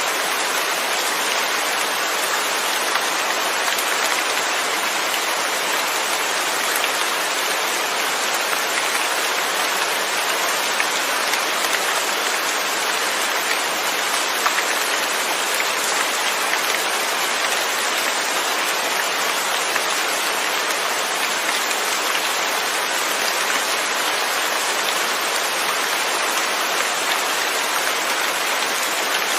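Steady heavy rain, an even hiss of drops falling without thunder.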